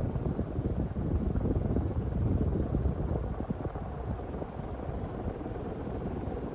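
Harbor Breeze Cefiro ceiling fan running, its draft buffeting the microphone in a low, fluttering rumble.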